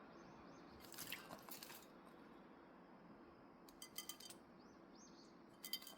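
A quaker parrot bathing: three short bursts of splashing and rattling at its water bowl, about a second in, about four seconds in, and near the end, the later two with a ringing clatter.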